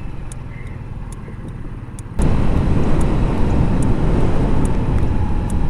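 A Yamaha Riva 125 scooter's engine running steadily while being ridden. About two seconds in, a loud rush of wind noise suddenly sets in on the microphone and buries the engine as the scooter picks up speed.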